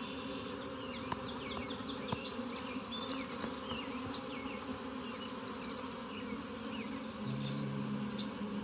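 Honeybees buzzing in a steady hum around an opened hive. About seven seconds in, a closer, lower buzz joins, a single bee flying near.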